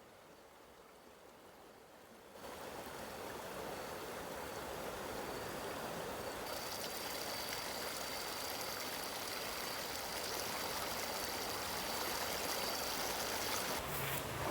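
Running water with a steady rushing noise that starts suddenly a couple of seconds in, after a quiet stretch. About halfway through, a thin, steady high whine joins it.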